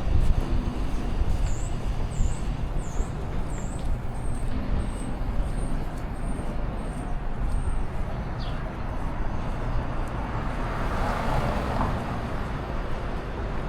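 Downtown street traffic rumbling steadily, with a vehicle passing more loudly near the end. Over it, a run of about eleven thin, high chirps, roughly one every half second, sounds for several seconds early in the stretch.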